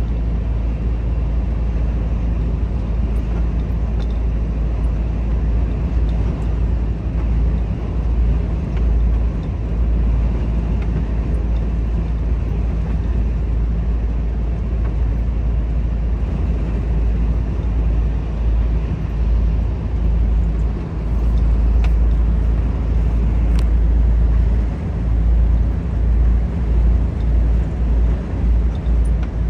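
Volvo FH 460 truck under way: a steady low drone from its 13-litre six-cylinder diesel, mixed with road noise. The rumble pulses unevenly in the last few seconds.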